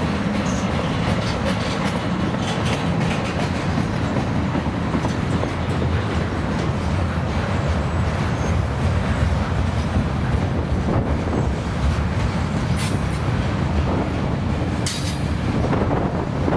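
Freight train rolling past: a steady rumble of wheels on the rails, with a few sharp clicks near the end.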